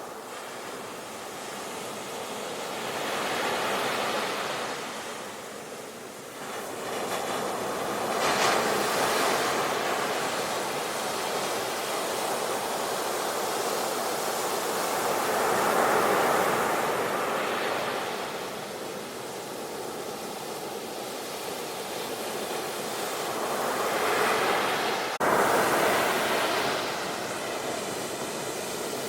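Sea waves breaking and washing onto the shore, the surf swelling and falling back every several seconds, with a sudden louder surge near the end.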